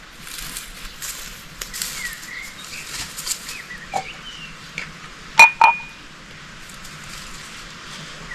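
Small birds chirping in short, quick phrases, then two sharp clinks in quick succession about five and a half seconds in, the first ringing briefly.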